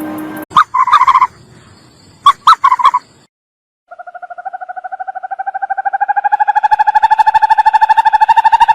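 Animal calls: a few short calls in the first three seconds, then, after a brief silence, one long trill of rapid pulses, about ten a second, rising slightly in pitch and getting louder.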